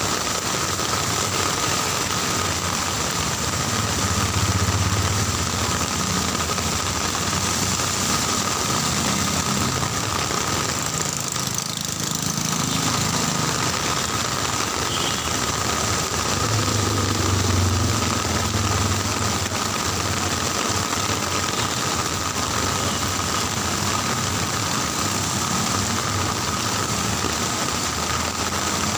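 Heavy rain falling steadily, with motor vehicle engines running close by; an engine rumble swells about four seconds in and again around seventeen seconds.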